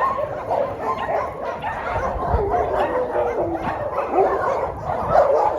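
Many dogs barking, yipping and whining at once, a continuous overlapping chorus of calls.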